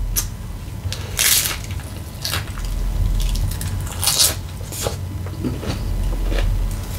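Close-miked eating: a tortilla chip loaded with taco salad crunched in a few short bites, with wet chewing and mouth sounds between them. The loudest crunch comes about four seconds in.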